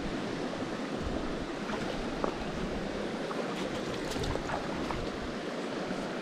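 Small mountain stream running over rocks, a steady rushing of water, with a few faint ticks about halfway through.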